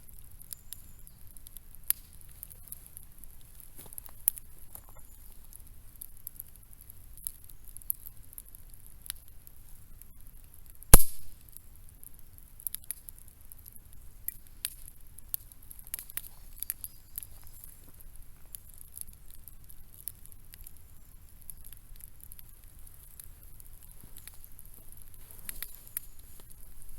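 Scattered light clicks and taps over a faint steady hiss, with one sharp, loud knock about eleven seconds in.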